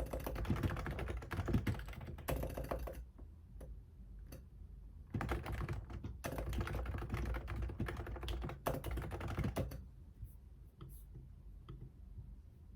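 Typing on a computer keyboard in quick runs of keystrokes, pausing about three seconds in and again near the end, where only a few single key clicks are heard.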